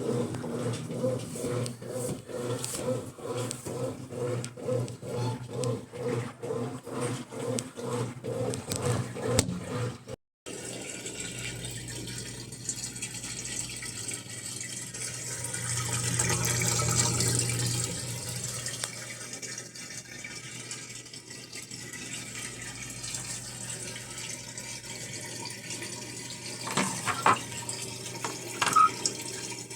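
Brastemp washing machine filling with water, with a steady low hum under the running water. For the first ten seconds there is a rhythmic pulsing, and after a short break the filling sound carries on, with a few brief knocks near the end.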